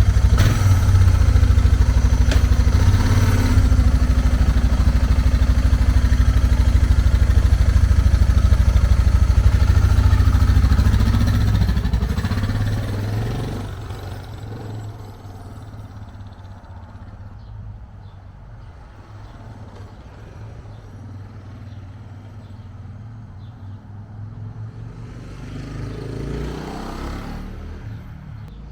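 Suzuki DR650 single-cylinder four-stroke engine running loudly and steadily, then fading about twelve seconds in as the bike moves off. It stays faint after that and swells briefly near the end.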